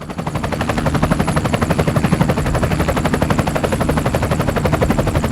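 Sustained fully automatic gunfire: an even, rapid string of shots at about fifteen a second over a steady hum, cutting in abruptly and running without a break.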